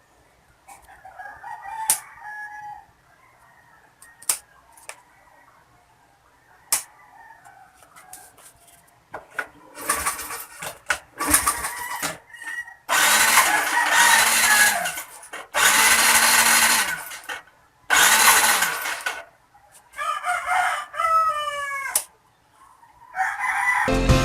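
Electric starter cranking the motorcycle engine in three bursts of about a second and a half each, the starter's pitch rising, holding and dropping each time, without the engine catching. A rooster crows shortly after.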